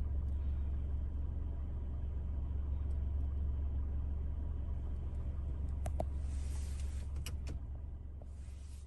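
Steady low engine rumble of a vehicle, with a few sharp clicks and a brief hiss about six seconds in, fading away near the end.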